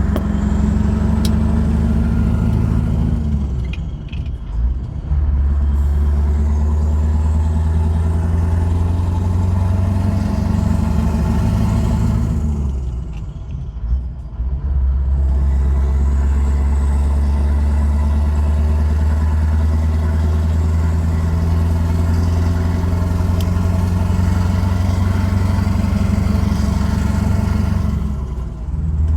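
Scania R500's 15.6-litre V8 diesel pulling under load, its note slowly rising as the truck gathers speed. Three times (a few seconds in, near the middle and near the end) the sound dips briefly and the pitch drops, as at upshifts.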